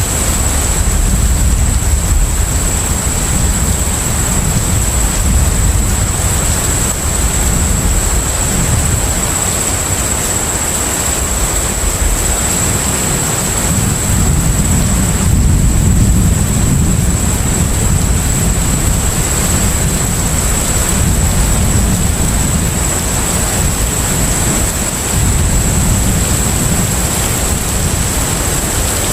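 Steady low rumble of a container ship under way, over a constant wash of sea noise, with a thin steady high whine running through it.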